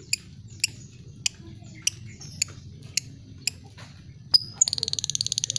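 Lovebird 'ngetik': sharp single clicking notes about two a second, eight in all. Near the end it breaks into a rapid, continuous chattering trill, the long 'ngekek'.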